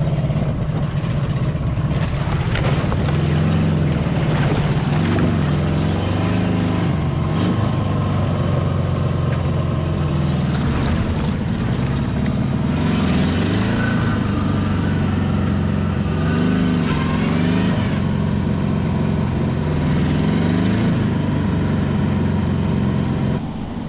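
Subaru Brat's flat-four engine revving up and down again and again as its rear wheels spin on ice in two-wheel drive, a burnout that ends with the car stuck.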